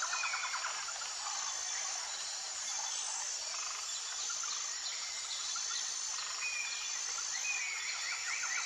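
Several birds calling over a steady high-pitched background hiss: short whistled notes, with rapid trills near the start and again near the end.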